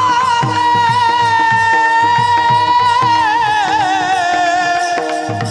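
A male devotional singer holds one long high note with ornamentation, the pitch sinking gently about three seconds in and beginning to waver near the end, over steady low drum beats and sustained instrumental accompaniment.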